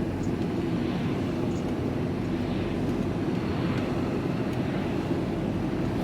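Steady engine and road noise of a vehicle driving along, heard from inside the cab: an even low drone with no changes.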